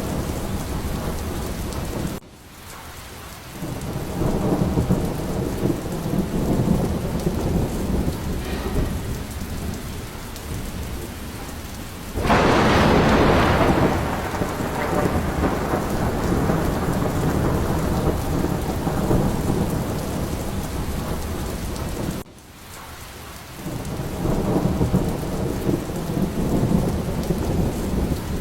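Steady rain with thunder rumbling low. About twelve seconds in comes a loud, sharp thunderclap lasting a couple of seconds. Twice the sound drops away suddenly and swells back within a second or two.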